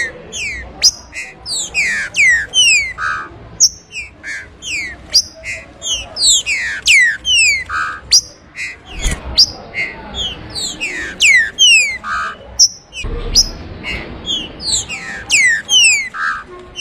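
Green-winged saltator (trinca-ferro) singing: a fast, unbroken run of clear whistled notes, most of them sliding downward in pitch, several a second.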